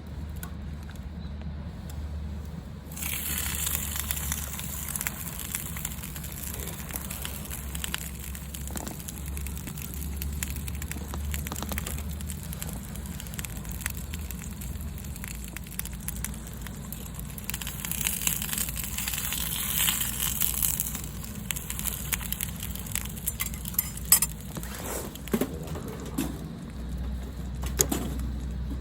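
Wood campfire burning, crackling steadily with fine snaps and a few sharp pops near the end.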